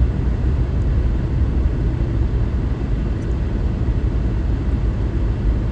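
Steady low rumble of a car driving, heard from inside the cabin: engine and road noise with no clear changes.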